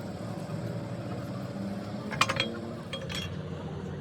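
An engine running steadily, with a few sharp metallic clinks about two seconds in and again about a second later.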